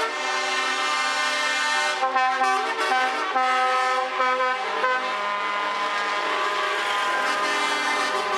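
Truck air horns blowing, several at once in an overlapping chord of steady tones. The horns break off and come back a few times between about two and five seconds in.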